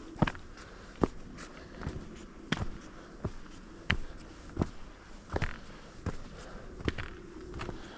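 A hiker's footsteps on a trail, a sharp step about every three-quarters of a second, over a faint steady background.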